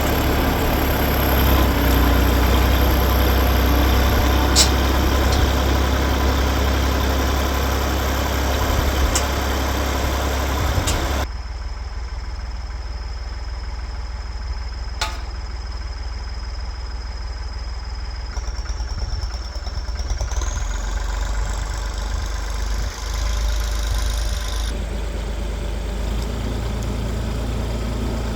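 Tractor engine running steadily while towing a dead lawn tractor. The sound drops abruptly and turns quieter about eleven seconds in.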